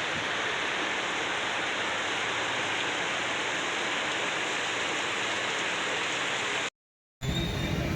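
Heavy rain pouring down in a steady hiss. It cuts off abruptly about seven seconds in and, after a brief gap, gives way to a lower, rumbling noise.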